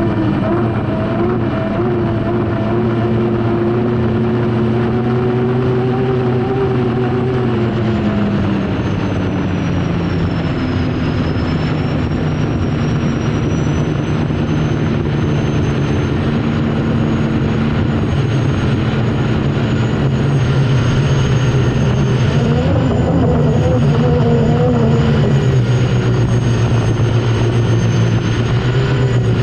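Unlimited hydroplane's Lycoming T55 turbine engine running at racing speed, heard onboard over a steady rushing noise. The engine note drops about eight seconds in and climbs again about twenty-two seconds in.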